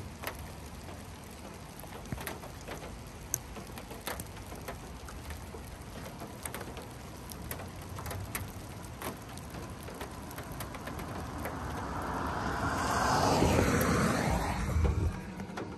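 Steady rain hiss heard from inside a parked car, with scattered sharp ticks of drops striking the car. Near the end a rushing swell of noise builds for a few seconds and then fades.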